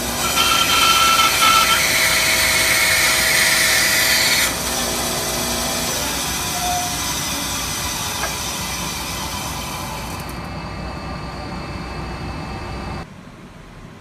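Rikon 10-305 10-inch bandsaw cutting through wood for about four seconds, then running without load, its sound easing off until it drops away abruptly near the end.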